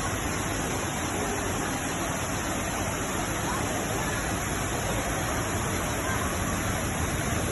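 Waterfall's steady rush of falling water, an even roar with no breaks.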